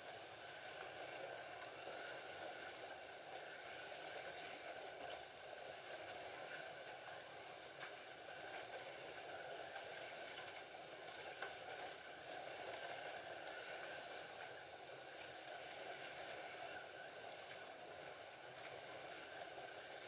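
Scalextric slot cars running laps on the track: a steady, faint whine and buzz of their small electric motors, with a few tiny high pips.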